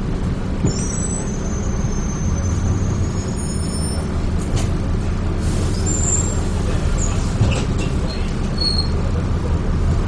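Dennis Trident 2 double-decker bus running, heard from on board: a steady low engine and road rumble. Thin high squeals come in about a second in and again from around six seconds.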